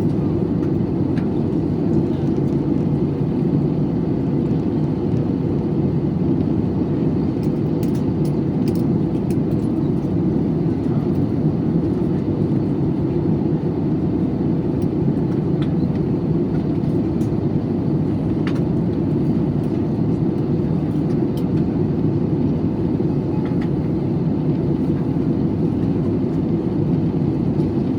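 Steady cabin drone of an airliner in flight, engine and airflow noise with a faint constant hum, unchanging throughout, with a few faint clicks about eight seconds in.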